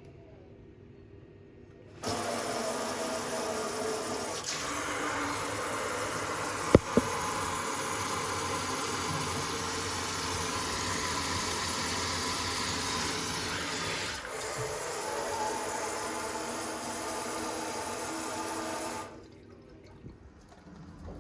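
Water running steadily from a TOTO single-lever kitchen mixer tap into the sink, switched on abruptly about two seconds in and shut off just as abruptly near the end, with one sharp knock partway through.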